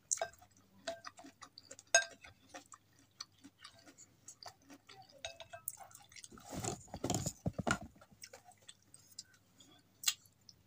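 Close-miked eating sounds of someone chewing noodles and vegetables, with many small wet clicks. Wooden utensils tap sharply against a glass bowl near the start, at about two seconds and near the end. A louder, fuller mouth or handling sound comes for a second or so past the middle.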